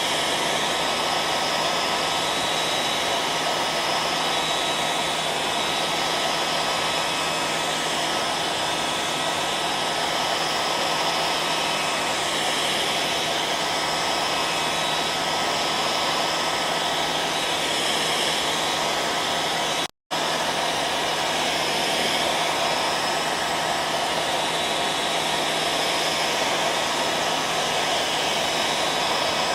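Hair dryer running continuously, a steady rushing of air with a hum and a faint whine riding on it. It cuts out to silence for a split second about twenty seconds in, then carries on unchanged.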